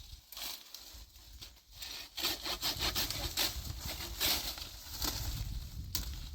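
Hand saw cutting through a wooden branch in quick back-and-forth strokes, which get louder about two seconds in.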